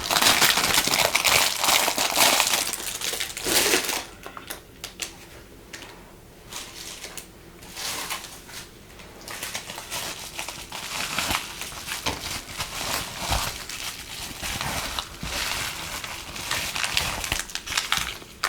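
Packaging crinkling and rustling as it is handled and opened, dense and loud for the first four seconds, then in quieter intermittent bursts.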